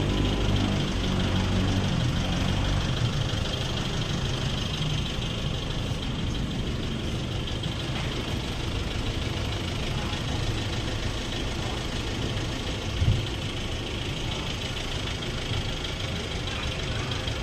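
Car engine idling steadily, with one brief low thump about three-quarters of the way through.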